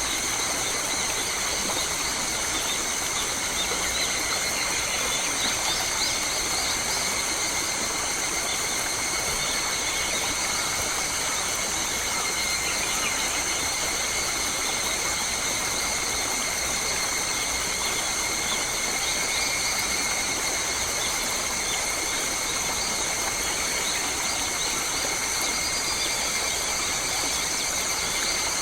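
Forest ambience: a steady insect drone holding several high pitches over an even hiss, with scattered short bird chirps.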